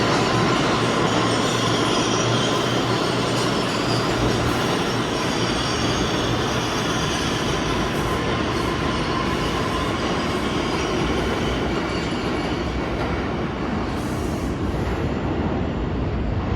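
New York City subway train running through the station, a steady rumble of wheels on the rails. A high squeal of the wheels is heard in the first half and fades away.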